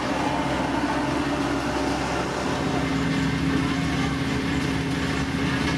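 Diesel engine of heavy road-building machinery running steadily, with a pitched hum that grows stronger about two and a half seconds in.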